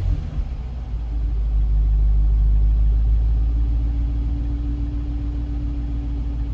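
Jaguar XJR engine idling with a steady low rumble, settling back after a rev and holding a steady idle from about two seconds in.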